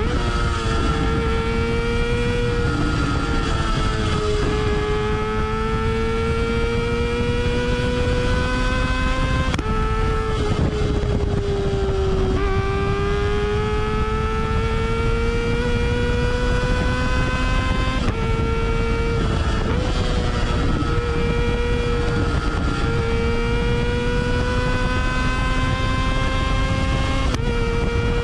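Kawasaki ZX-25R's 250 cc inline-four running through a Yoshimura R77-style slip-on exhaust while the bike is ridden. The exhaust note climbs steadily in pitch and drops back at each gear change, several times over, with wind rush underneath.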